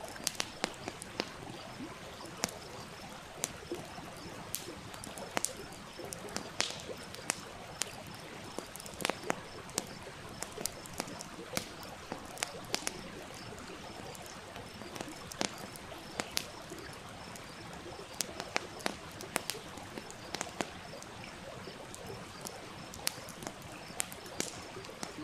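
Wood fire crackling, with frequent irregular sharp pops, over the steady rush of a small stream.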